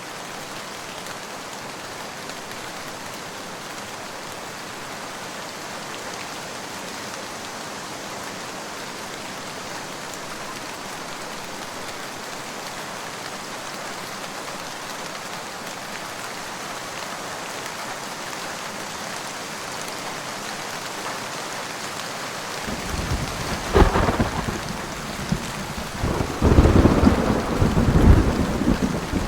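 Steady rain hissing, then about three-quarters of the way in a thunderclap breaks in, with a sharp crack and a rolling rumble that peaks twice and is still rumbling at the end.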